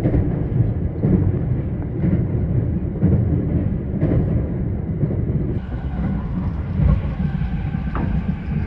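Limited express electric train running, heard from inside the passenger car: a steady low rumble of wheels on rails, with a few louder low thumps along the way.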